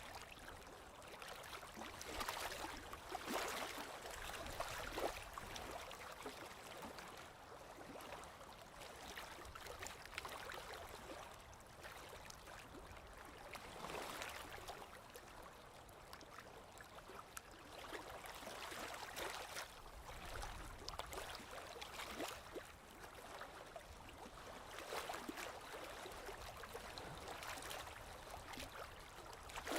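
Small waves lapping and splashing gently against a lakeshore, in soft irregular swells a few seconds apart.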